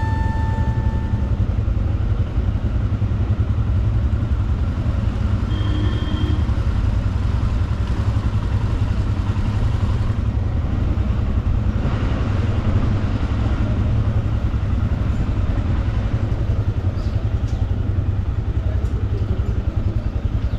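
Royal Enfield Himalayan 411 cc single-cylinder motorcycle riding along at steady speed, a continuous low rumble of engine and road.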